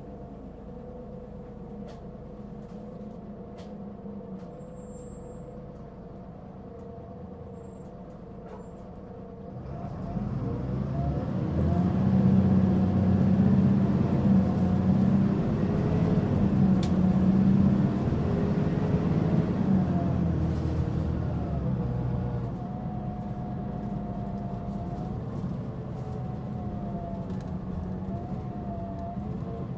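Mitsubishi Fuso Aerostar city bus's six-cylinder turbo diesel idling, then pulling away about ten seconds in under strong throttle, its note rising and getting loud for about ten seconds before easing to a steadier run, heard from inside the bus. This particular bus is known for a marked abnormal running noise.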